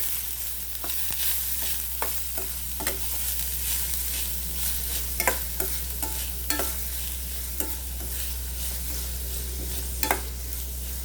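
Chopped onions sizzling in hot oil in a kadai as they are sautéed, with a spatula scraping and knocking against the pan every second or so.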